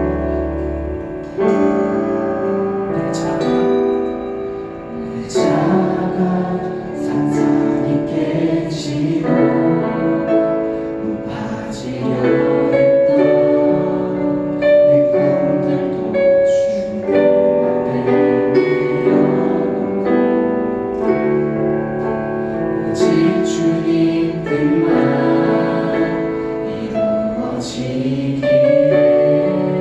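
Church praise team singing a Korean worship song with keyboard accompaniment.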